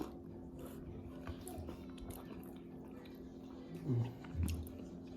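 Close-up eating sounds: chewing and small mouth clicks from someone eating a seafood boil, with two short, louder low mouth sounds about four seconds in, over a faint steady hum.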